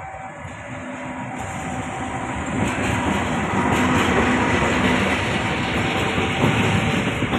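A train drawing near and passing close by: its noise grows louder over the first three seconds, then holds as a steady loud rumble with wheels clattering over the rails.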